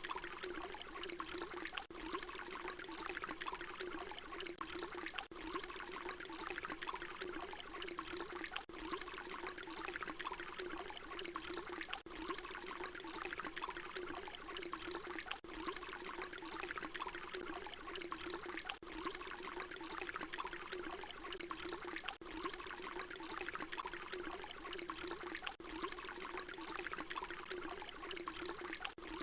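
Water pouring steadily. It is a short recording looped about every three and a half seconds, with a brief dip in level at each repeat.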